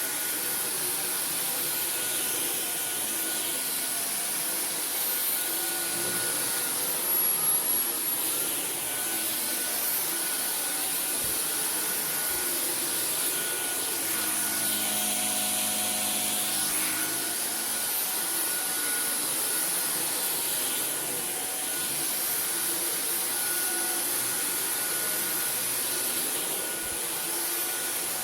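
Dyson V15 Detect cordless stick vacuum running steadily as it vacuums carpet, with a high motor whine. Its motor pitch dips briefly and the sound gets louder about seven seconds in.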